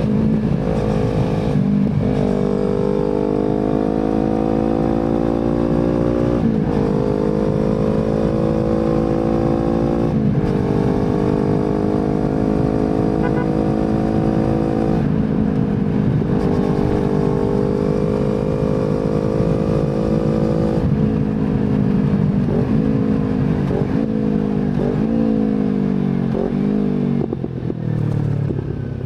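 Kawasaki Z250 parallel-twin motorcycle engine heard through an aftermarket slip-on exhaust while riding. The engine pitch climbs steadily in each gear and drops sharply at upshifts about 2, 6, 10, 15 and 21 seconds in. In the last several seconds come a run of quicker short rises and falls in pitch.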